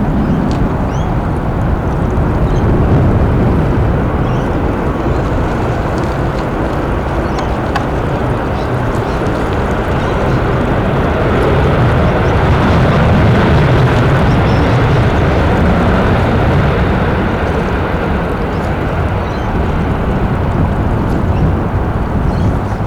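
Jet airliner engine noise, a loud steady rumble that swells and grows brighter about halfway through.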